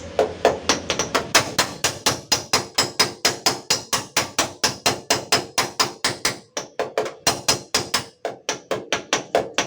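Hammer tapping rapidly on a car door's sheet-metal panel to knock out a small dent, about four to five ringing blows a second, with short pauses about two-thirds of the way through.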